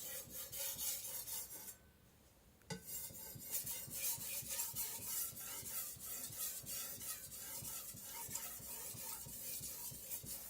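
The edge of a stainless steel Chinese cleaver is being rubbed back and forth on a wet whetstone in quick, steady scraping strokes. There is a brief pause about two seconds in. Only the edge is being worked, to sharpen it after the blade has been thinned.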